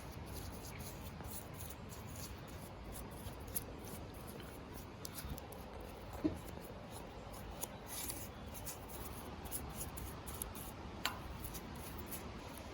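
Faint hand-tool scraping and rubbing, with scattered light ticks and three sharper clicks: one a few seconds in, a louder one about halfway, and one near the end.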